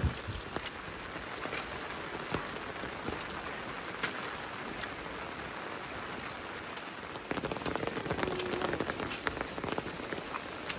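Heavy rain falling steadily on surfaces, with scattered sharper drops standing out. It grows louder and denser for a few seconds near the end.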